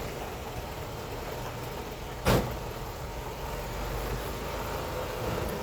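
Heavy machinery running with a steady low rumble, and one loud, sharp metallic bang a little over two seconds in.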